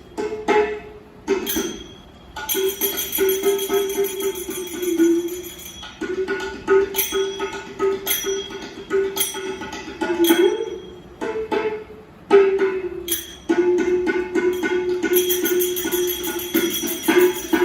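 Rajasthani folk music: a hand drum beating a quick rhythm with jingling bells, under a held melodic line that wavers in pitch. The jingling grows brighter near the end.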